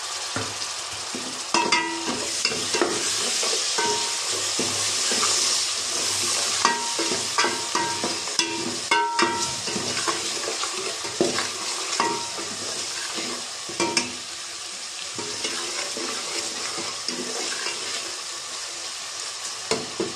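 Chopped tomatoes sizzling as they fry in hot oil with onions and spices in a metal pot, while a steel ladle stirs them, knocking and scraping against the pot. The sizzle is strongest in the first several seconds, and some of the ladle's knocks ring briefly.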